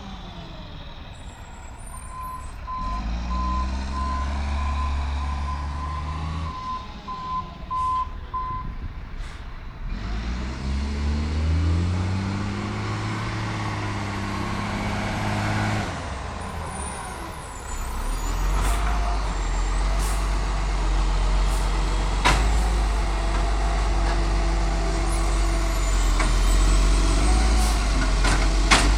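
Bin truck's diesel engine running and revving up in stages, then held at higher revs for a long stretch. A reversing beeper sounds about twice a second for some six seconds near the start. A few sharp bangs or hisses cut through the engine noise.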